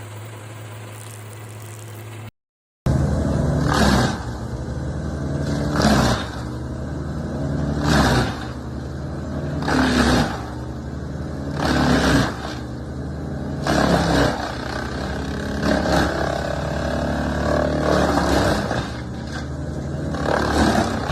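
Stump grinder running under load, with a loud grinding surge about every two seconds as the cutting wheel is swept back and forth through the stump. A lower steady machine hum comes first, then drops out briefly.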